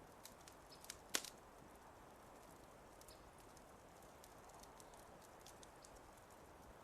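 Wood fire crackling faintly over a soft steady hiss, with scattered small pops and one sharp, louder pop about a second in.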